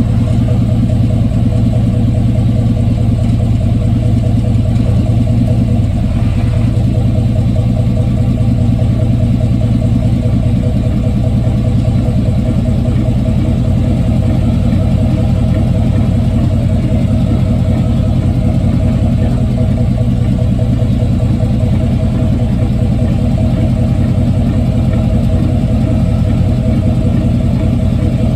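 1995 Chevy Silverado pickup's 5.7-litre V8 and drivetrain running, heard from underneath the truck: a loud, steady low hum, with a short brighter swell about six seconds in.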